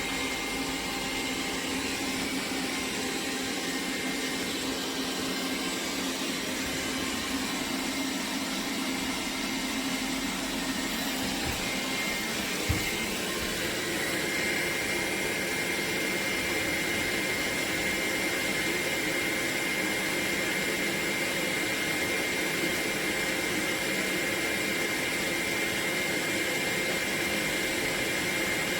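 Roborock Q7 MAX+ robot vacuum running with a steady whir. About halfway through there is a sharp knock; after that a steady high whine joins in and the running sound is slightly louder.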